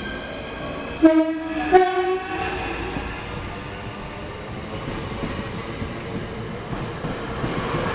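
A train sounds its two-tone horn about a second in: two short notes, the second slightly higher. Then comes the steady rush and rumble of the train running through.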